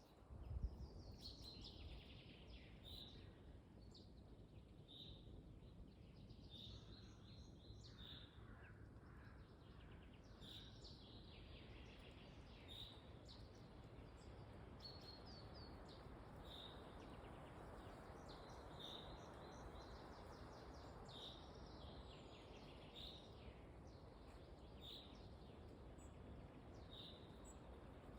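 Faint forest ambience: small birds giving short, high chirps every second or two over a soft hiss of wind in the trees, with one brief knock just after the start.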